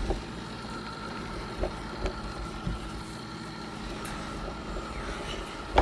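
iRobot Roomba robot vacuum running, picked up by a phone riding on top of it: a steady hum of its motors and brushes with a thin steady whine, and a few short knocks.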